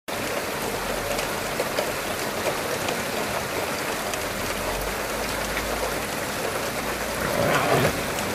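Steady heavy rain pouring, cutting in suddenly at the start. Near the end a louder, rougher swell rises over it.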